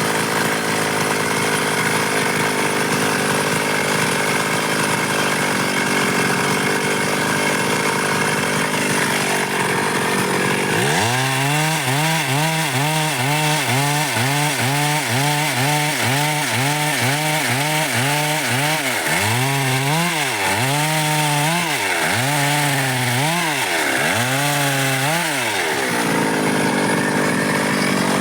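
Stihl MS 382 two-stroke chainsaw cutting dry wood. It runs steadily at high revs for the first ten seconds or so. From about eleven seconds the engine note drops and wavers up and down about once a second, the dips growing deeper. Near the end it settles back to a steady high pitch.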